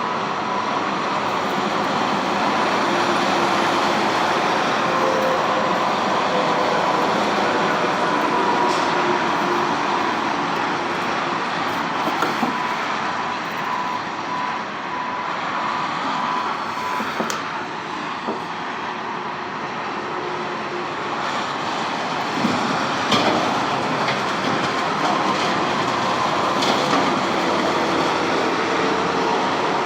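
Steady rumbling noise of a moving vehicle, with faint steady whining tones and an occasional click or rattle.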